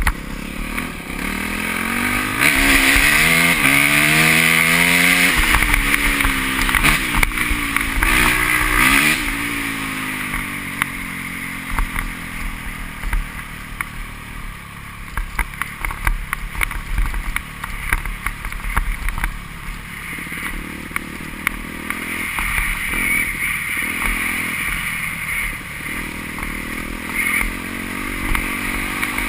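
Motocross bikes racing past, their engines rising and falling in pitch as they rev and shift. The engines are loudest from about two to nine seconds in, then fade to a quieter, steadier engine noise with occasional revs.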